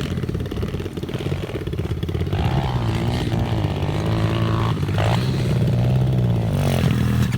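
Pit bike engine running, its revs rising and falling as the bike is ridden.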